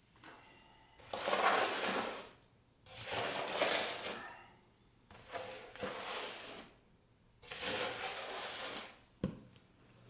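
Ash being scraped out of a fireplace: four long scraping strokes with pauses between them, then a sharp knock near the end.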